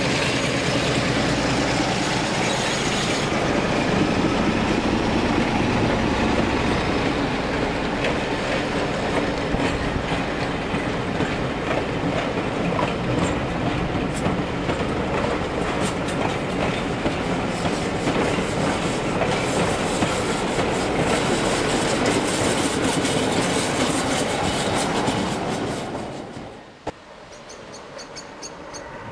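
A diesel-hauled rake of passenger coaches rolls past on curved track, its wheels clacking over the rail joints and squealing on the curve. The noise drops away sharply near the end.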